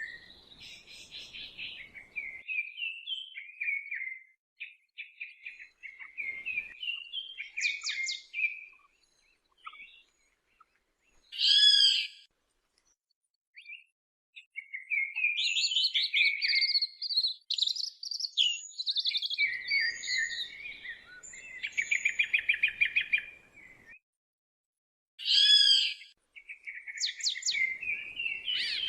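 Songbirds singing in the woods: a run of chirping, warbling phrases with short pauses between them. Two loud, brief bursts of song stand out, about a third of the way in and near the end.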